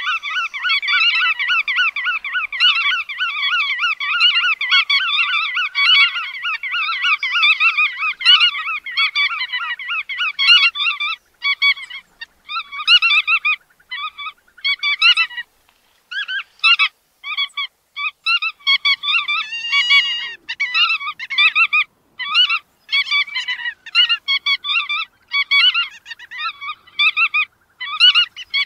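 Bar-tailed godwits calling: a dense run of quick, repeated high calls for about the first ten seconds, then shorter bursts of calls broken by brief silent gaps.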